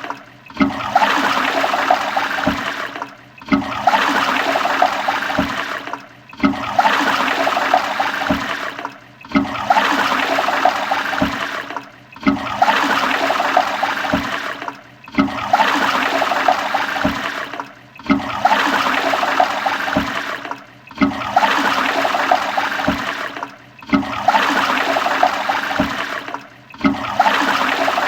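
Toilet flushing, a rush of water that cuts off in a brief gap about every three seconds and starts again, like the same short flush repeated over and over.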